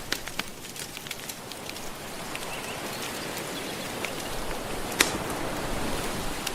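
Wood fire crackling, with scattered sharp pops and the loudest about five seconds in, over a steady wash of gentle ocean waves that swells slightly.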